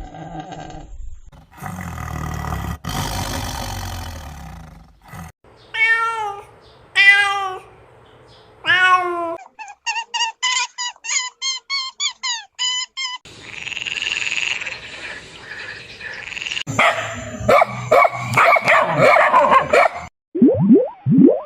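A string of different animal calls, one after another. First a noisy call of about three seconds, then three pitched calls that fall in pitch, about a second apart. Then a quick series of about a dozen short calls in three seconds, and near the end a dense jumble of calls.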